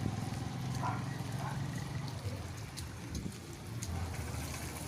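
A small vehicle engine running steadily at low speed, its pitch dropping about four seconds in, with the light hiss and ticking of rain.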